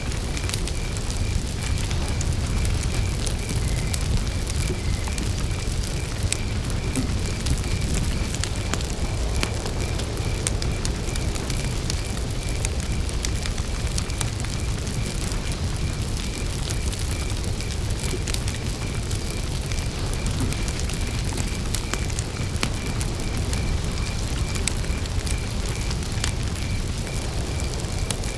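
Wood campfire crackling, with scattered sharp pops over a steady low rumble of flames. A cricket chirps in an even, unbroken pulse on one high note.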